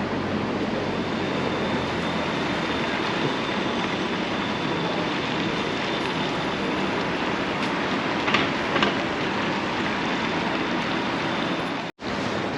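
Steady running noise of a train, with a faint high whine through most of it and two short squeaks about eight and a half seconds in; the sound cuts out abruptly near the end.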